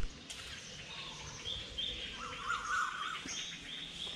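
Birds chirping over steady outdoor background noise: short high notes repeated several times a second, and a warbling trill about two seconds in. A single sharp click at the very start.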